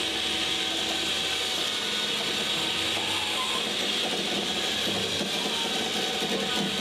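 Wheel dollies' casters and tyres rolling and rattling steadily on a concrete floor as a vintage VW double cab pickup is pushed by hand.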